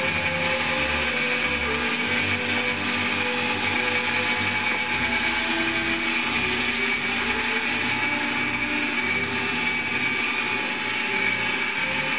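The Stretham Old Engine's beam pumping engine running, turned by an electric motor for demonstration rather than by steam: a steady mechanical running sound with a constant hum of several steady tones. A faint high whine fades out about two-thirds of the way through.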